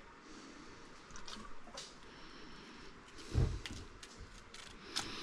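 Plumbing parts being handled and test-fitted: scattered light clicks and knocks, with a dull thump about three and a half seconds in.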